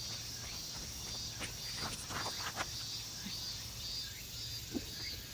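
Insects calling steadily in the background, a high chirp pulsing about twice a second over a constant high hiss, with a few faint clicks.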